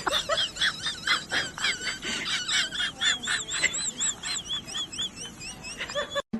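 High-pitched animal calls repeated rapidly, about four or five short arching chirps a second, several overlapping, ending abruptly near the end.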